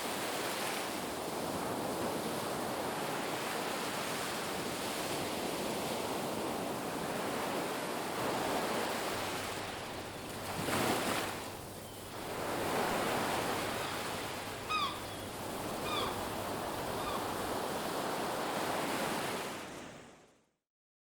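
Ocean waves breaking and washing up on a beach, a steady rushing that swells and ebbs, with one louder wave surging about halfway through. A bird calls three times briefly, then the sound fades out to silence near the end.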